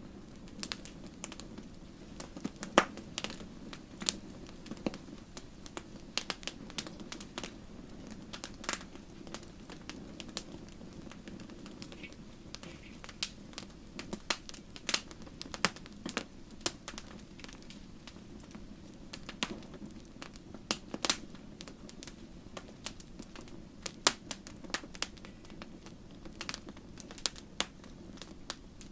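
Wood campfire crackling and popping: irregular sharp snaps, some much louder than others, over a steady low rush of burning.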